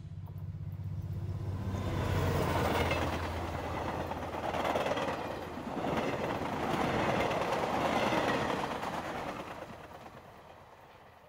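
A train going by: a low rumble, then noise that swells and falls in waves before fading away near the end.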